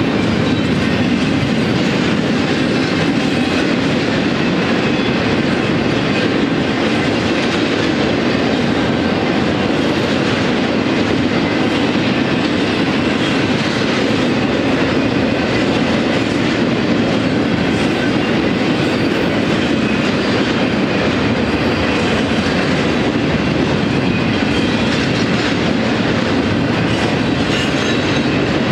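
Cars of a BNSF intermodal freight train rolling steadily past: a loud, continuous rumble and clatter of steel wheels on the rails. Double-stack container cars give way to trailers riding on flatcars.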